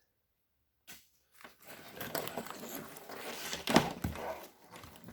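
Automotive wiring harness being handled and stripped: plastic loom and wrap rustling and crinkling, with sharp plastic clicks and snaps, the loudest a little under four seconds in.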